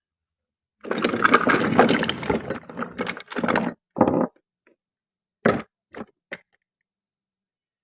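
Crunching and crackling for about three seconds, then four separate short knocks.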